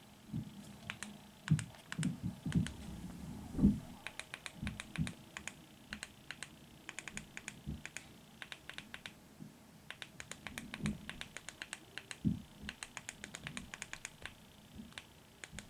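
Typing on a computer keyboard: runs of rapid key clicks with short pauses between them, mixed with a few duller thumps.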